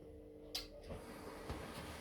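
Quiet room with a faint steady hum, a single light click about half a second in, and a couple of soft knocks later.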